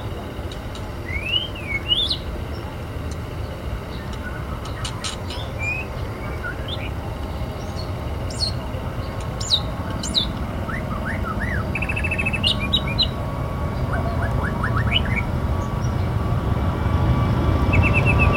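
Small birds chirping and whistling in short sliding calls and quick trills, over a low rumble that swells steadily in the second half.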